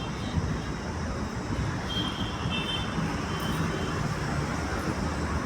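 Steady road traffic noise from passing vehicles, with a few faint high tones about two seconds in.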